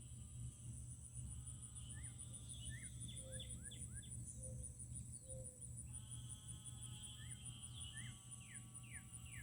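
Outdoor wildlife chorus: a steady, high, fast-pulsing insect trill, with bursts of short falling chirps and a few brief low notes in the middle.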